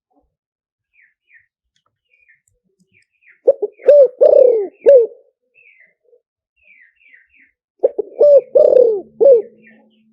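Spotted dove cooing in two phrases of about four coos each, one a third of the way in and one near the end: the call used to lure wild spotted doves. Faint high chirps of small birds come in between.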